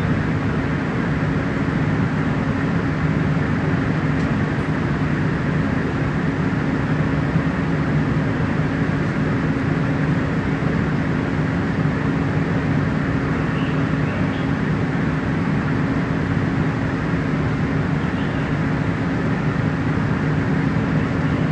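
Fire engine running steadily, a constant low hum under an even rushing hiss as the hydrant line is depressurized.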